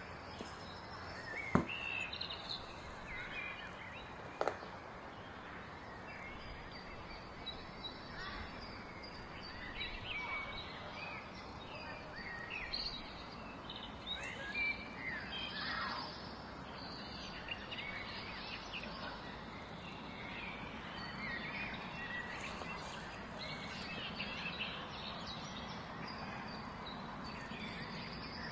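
Birds chirping in the background over a steady hiss, with two sharp clicks in the first few seconds.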